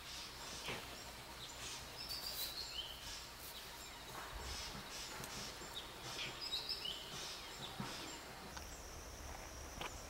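Wild birds giving short, high chirping calls in two brief clusters, about two seconds in and again around six and a half seconds. A steady high insect buzz comes in near the end.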